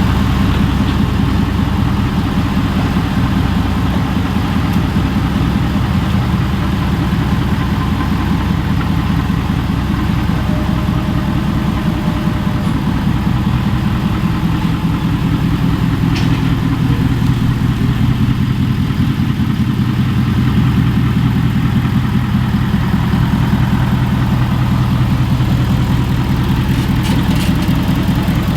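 Truck engine idling steadily, a low even running note with no revving.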